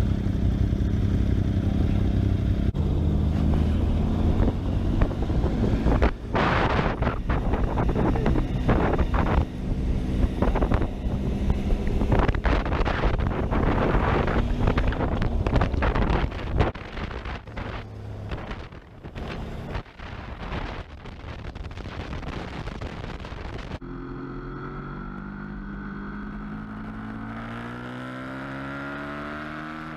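Motorcycle engine running on the move, with wind rushing over the microphone. The wind is heaviest in the first half. From about 24 s a cleaner engine note rises and falls in pitch as the bike accelerates.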